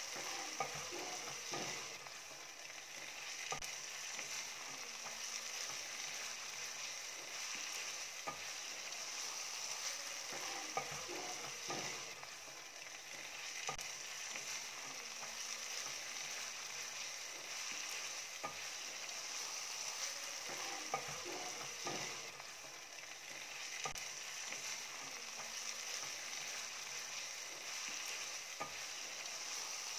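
Minced meat frying in oil in a pan: a steady sizzle with scattered small pops and crackles.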